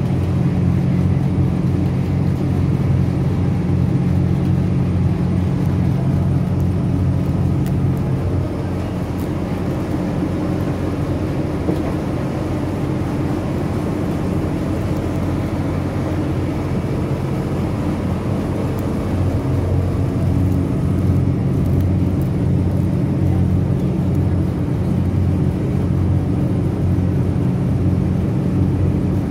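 Northern Ireland Railways diesel multiple unit heard from inside the carriage while under way: a steady low drone of engine and running noise. It drops a little in loudness about eight seconds in and comes back up about two-thirds of the way through.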